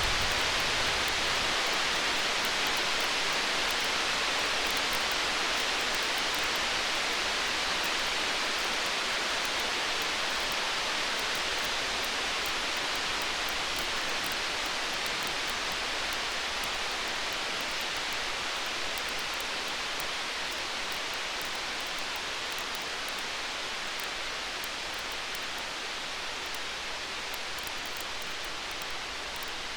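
Stormy-night ambience: a steady hiss of rain with the small scattered pops of a crackling campfire, the tail of a thunder rumble dying away right at the start. The hiss slowly fades.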